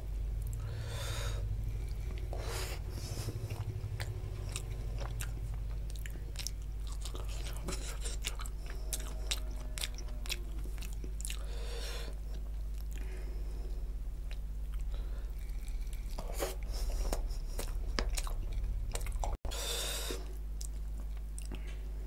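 Close-miked wet chewing and lip smacking from someone eating mutton curry with bhatura by hand, a string of small clicks broken by several louder smacks.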